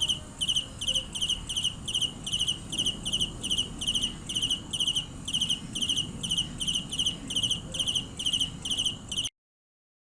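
Dế cơm cricket chirping in a fast, even rhythm of short trilled chirps, about three to four a second, stopping abruptly near the end.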